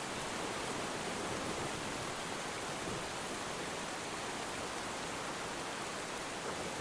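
Soft, steady rainfall: an even hiss with no distinct drops or swells.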